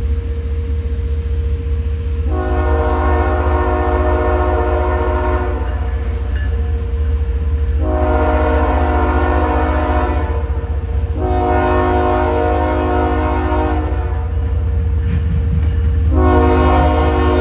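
Locomotive air horn sounding four long blasts, several notes at once, the last still going at the end, over the steady low rumble of a passing train.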